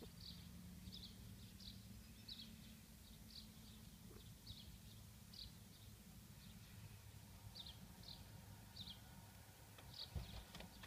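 Faint outdoor quiet with a small bird chirping again and again, short high chirps about once a second at uneven spacing, over a low steady hum. A brief rustle near the end is the loudest sound.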